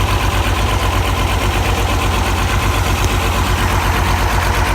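Tractor engine idling steadily after a cold start, its low exhaust beat even and regular; the owner hears a miss in it.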